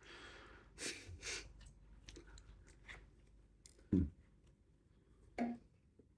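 Close-miked eating: a mouthful of fried potato shreds being chewed, with soft crackles and small clicks. A sharp low knock about four seconds in, then a short low hum from the eater's throat.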